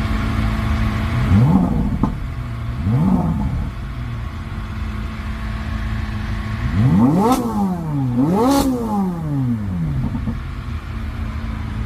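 C8 Corvette Z06's V8 idling and being revved in place: two quick short blips, then about seven seconds in a harder double rev that climbs, dips, climbs again and falls back to idle.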